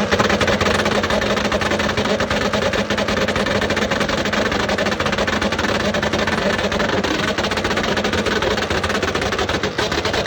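Car engine running steadily at high revs, with a dense rapid crackle over a steady engine tone.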